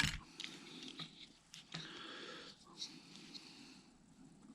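Faint clicks and light handling noises of small parts and a tool being moved about, with one sharper click right at the start.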